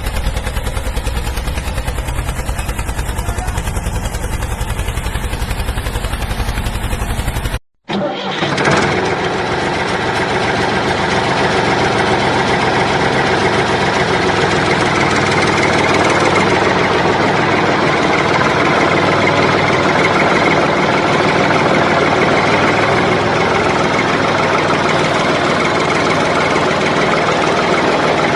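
A motor running steadily with a low rumble. It cuts out abruptly about eight seconds in, then comes back as a smoother, more even running sound.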